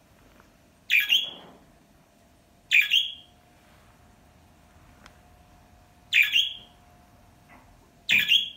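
A bird's harsh squawking call, given four times at uneven intervals of two to three seconds. A faint steady hum runs underneath.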